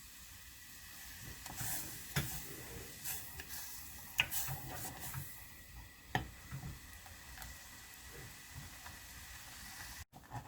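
Glutinous rice paste simmering in a pot as it is stirred, with a faint hiss and soft, irregular pops and taps from the thickening paste and the spoon against the pot.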